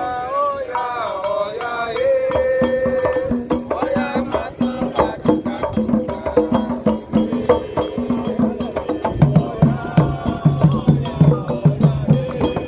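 Candomblé toque: atabaque hand drums and a bell play a fast, steady rhythm, with a voice singing over the first few seconds. The deep drum strokes grow stronger from about nine seconds in.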